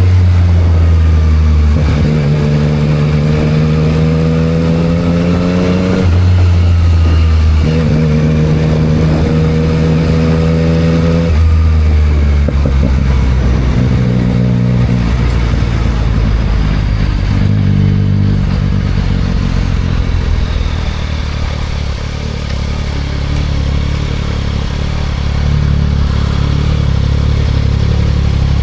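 2024 Yamaha MT-09 SP's 890 cc inline three-cylinder engine through a Spark aftermarket full exhaust, accelerating through the gears. The pitch rises twice for about four seconds each, with a shift break between, then in shorter pulls, before settling to lower, steadier running in the second half.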